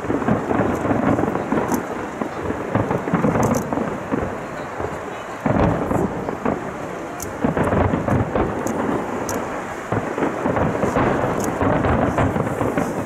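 Aerial fireworks going off in quick succession: a continuous rumble of overlapping bursts, with sharp cracks throughout and a louder volley about five and a half seconds in.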